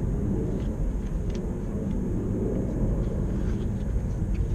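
Low, steady rumble of an airplane flying overhead, with a few faint clicks.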